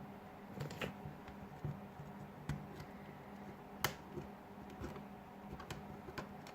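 Small clicks and taps of a pry tool working the plastic back cover of a Huawei P8 lite loose, over a faint steady hum. Irregular ticks, with the sharpest click about four seconds in.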